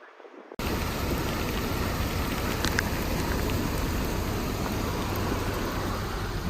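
Dense, steady rushing noise of heavy rain or floodwater that starts abruptly about half a second in and holds steady.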